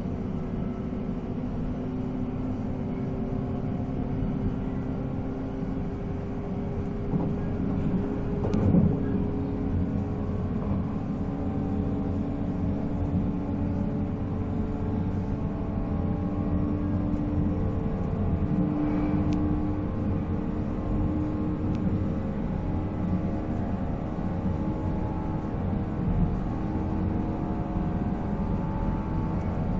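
485-series electric train running at speed, heard on board: its MT54 traction motors and gears hum in several steady tones whose pitch edges slowly upward, over a continuous rumble of wheels on rail. A few short knocks come through at about 9 and 19 seconds in.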